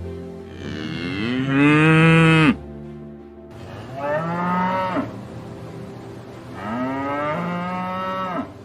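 Cow mooing three times: a long call that rises in pitch and is the loudest, then two shorter moos with pauses between.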